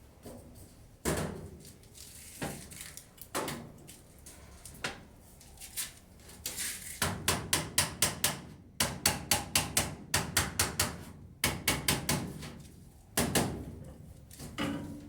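Hammer blows: a few separate knocks, then a quick run of strikes at about three a second in the middle, then more knocks.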